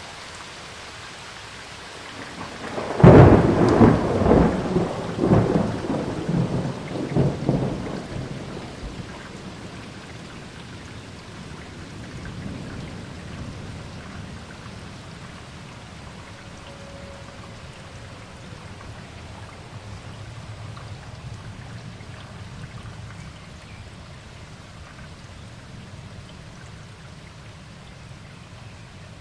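Steady rain with a loud thunderclap about three seconds in, rolling on in several peals and fading over about six seconds, before the rain goes on alone.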